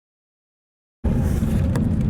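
Silence, then about a second in a cut brings in Airbus A380 cabin noise: a loud low rumble with scattered light rattles.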